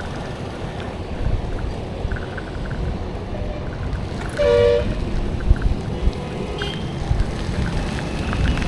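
Road traffic rumble, with one short vehicle horn toot a little past halfway.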